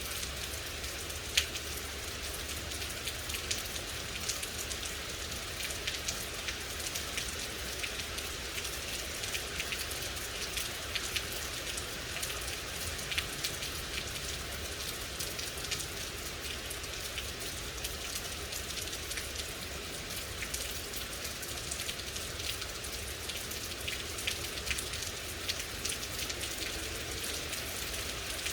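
Steady rain falling, a constant hiss scattered with the ticks of individual drops striking a surface, with one sharper drop about a second in.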